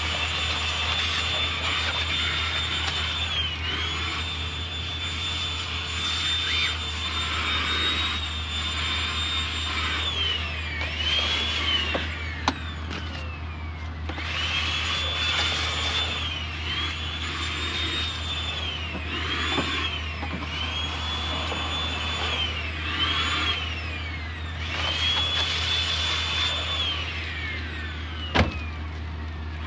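Milwaukee M18 compact cordless vacuum running with a high motor whine that dips in pitch and climbs back again and again as it sucks along the truck's interior. A couple of sharp clicks come through, about twelve seconds in and near the end.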